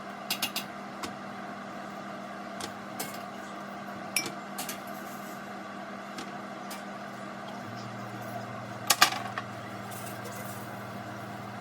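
A countertop blender motor running steadily while blending boiled tomatoes for salsa, with a few sharp clinks and taps of the jar and utensils, the loudest about nine seconds in.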